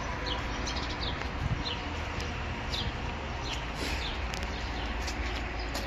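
A small bird chirping outdoors: short high chirps, each falling slightly in pitch, repeated under a second apart over steady background noise.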